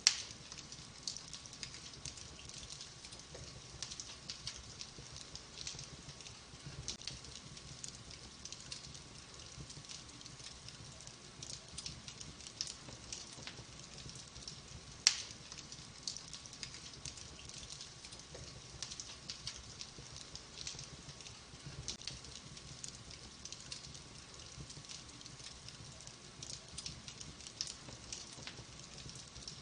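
Wood fire crackling: logs burning with a constant run of small crackles and a soft hiss. Two loud pops, one right at the start and one about halfway through.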